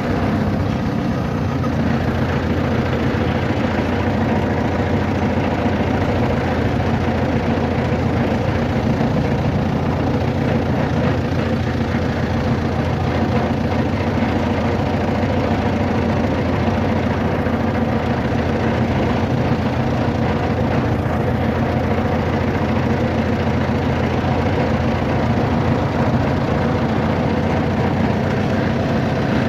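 A vehicle engine running steadily: a low, even drone with several steady tones over a constant rumble.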